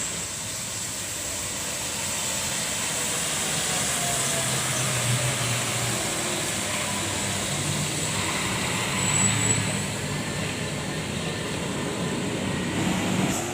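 Road traffic going by: vehicle engines and tyre noise in a steady wash that swells as vehicles pass, loudest a little past the middle.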